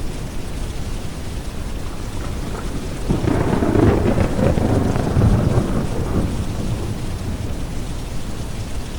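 Steady rain over a deep brown-noise hiss, with a peal of rolling thunder that swells in about three seconds in and rumbles for about three seconds before fading back into the rain.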